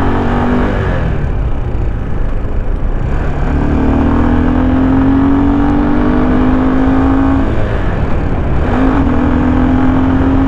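Forte 250-CKA motorcycle engine pulling under acceleration, its note climbing slowly in pitch, falling back about a second in and again near eight seconds before climbing once more, over a heavy wind rumble on the microphone.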